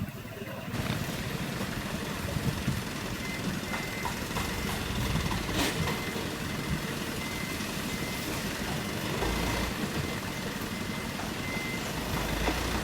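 Hino Dutro 130 HD dump truck's diesel engine running steadily, with a thin steady high tone over it from about three seconds in.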